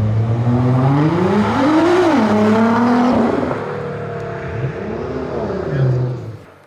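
Nissan GT-R's engine and exhaust revving: the pitch climbs steeply to a peak about two seconds in, drops and holds, then rises and falls once more before the sound fades out near the end.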